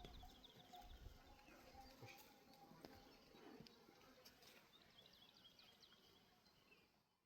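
Near silence with faint bird chirps: short high notes repeated in quick runs, and a few soft clicks, fading lower towards the end.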